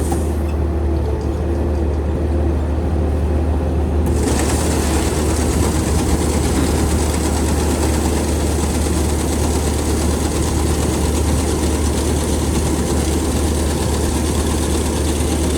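An engine running steadily with a strong low hum. Its higher hiss thins out just after the start and comes back about four seconds in.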